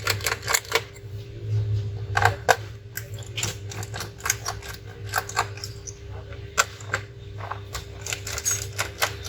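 Irregular small clicks and taps of laptop parts and tools being handled during disassembly, over a steady low hum.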